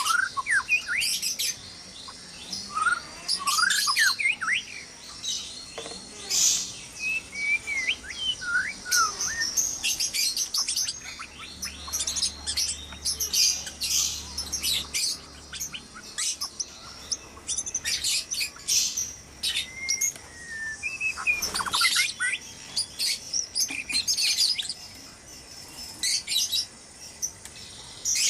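White-rumped shamas chirping noisily: a dense, busy run of short high chirps, mixed with a few whistled notes that slide up and down.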